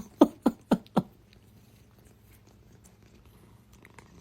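A cat making a quick run of about five short calls, each falling in pitch, within the first second.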